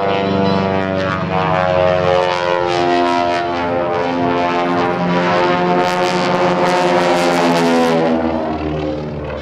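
Beech 18's twin Pratt & Whitney radial engines running loud at high power, their droning pitch shifting as the aircraft moves.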